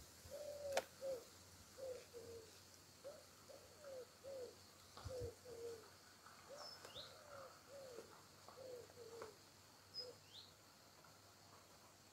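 Faint birdsong: a run of short, low, arching notes, a few to a second, with twice a high falling chirp. A sharp click sounds about a second in.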